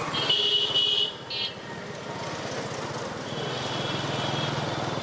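A vehicle horn honks twice, a long honk and then a short one, over the steady engine and road noise of a moving motorcycle.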